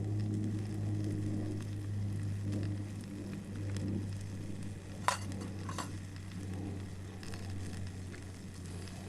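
Steak and vegetables sizzling on a grill over a campfire, under a steady low hum. Two sharp clicks come about five seconds in.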